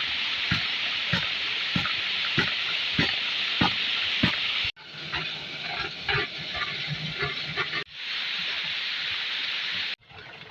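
Rushing water, in several short clips cut together: the noise breaks off and restarts abruptly about 5, 8 and 10 seconds in, and the last part is quieter. In the first part a regular thud sounds a little under twice a second.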